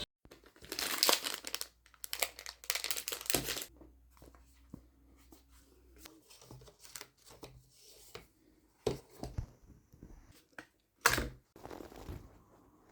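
Crinkly material being handled and torn up close: two long rustling, tearing stretches in the first few seconds, then scattered small clicks and handling noises, and one short sharp rustle near the end.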